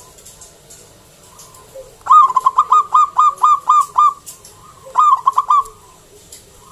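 Zebra dove (perkutut) singing: a loud run of about ten quick coo notes, each starting sharply and falling in pitch, then after a short pause a shorter run of four or five.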